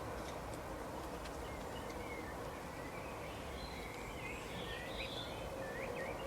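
Woodland ambience: small birds chirping in short notes that sweep up and down, busiest around the middle, over a steady background hiss.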